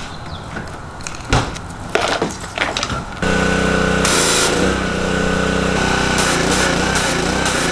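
A few scattered knocks and clicks, then a small motor starts abruptly about three seconds in and runs steadily and loudly.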